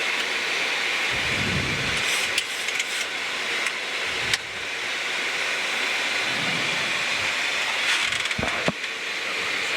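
Steady rushing noise on a Boeing 737-800 flight deck during the approach, with a few faint clicks.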